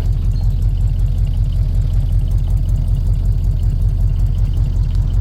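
Vehicle engine idling steadily with a low, evenly pulsing rumble.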